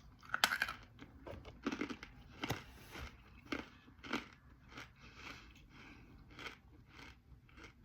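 Dry clay chunks being bitten and chewed close to the microphone: an irregular run of sharp, brittle crunches.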